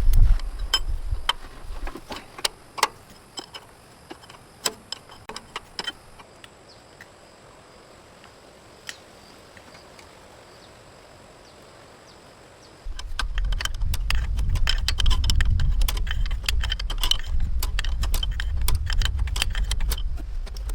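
Scattered sharp metallic clinks and knocks, like tools and parts being handled. They stop for several seconds, then come back thickly over a steady low rumble for the last third.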